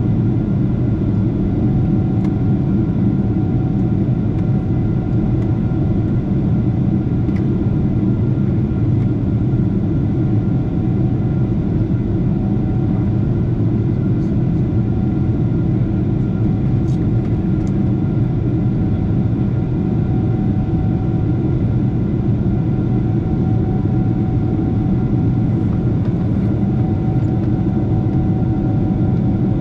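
Steady cabin drone inside a Lufthansa Boeing 747-8: engine and airflow noise, deep and even, with a faint steady hum on top.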